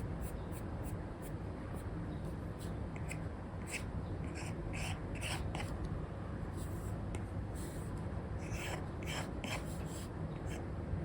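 Stylus sketching on a tablet: an Apple Pencil 2 with an Elecom nib scratching and tapping across a paper-like screen film in quick short strokes, with a few longer scratchy strokes about halfway through and again near the end. A steady low hum sits underneath.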